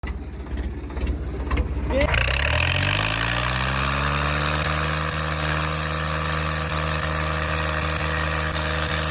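Swaraj 744 tractor's diesel engine running rough and low, then revving up about two seconds in and holding a steady, higher speed.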